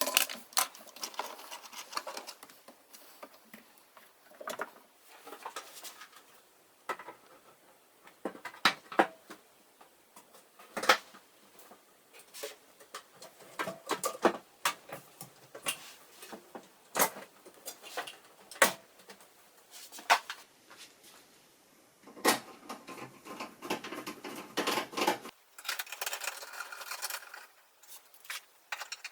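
Scattered clicks and knocks of washing-machine parts and tools being handled during reassembly, with stretches of rustling and scraping about two-thirds of the way through and again near the end.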